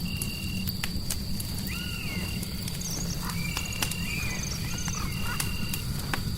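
A fireplace crackling and popping with sharp irregular snaps over a steady low rumble. A constant high tone and short repeated chirps run alongside, and a few short arching animal-like calls come around the middle.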